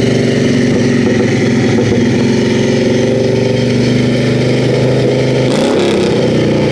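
Motorcycle engine running steadily at a constant speed, with a short change in pitch about five and a half seconds in.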